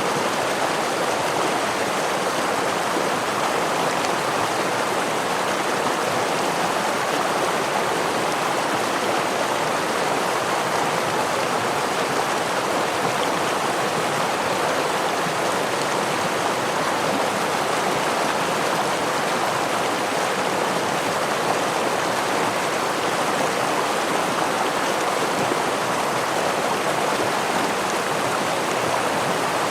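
Stream water rushing and splashing over rocks, a steady even rush with no breaks.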